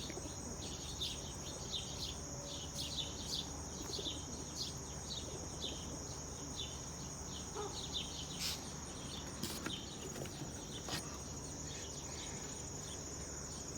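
Insects trilling steadily at a high pitch, with small birds chirping over and over.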